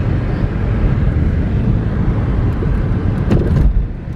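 Steady car-cabin rumble of engine and tyres while driving on a snow-covered road. A brief louder burst of noise comes about three seconds in, then the rumble eases a little.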